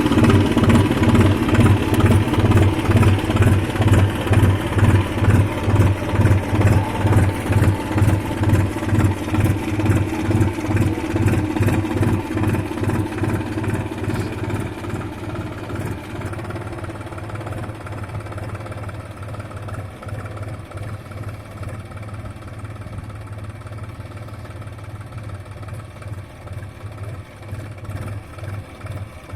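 New Holland 4710 tractor's diesel engine running under load while pulling a rotavator, with a low hum that pulses regularly in loudness. The sound grows steadily quieter from about halfway through.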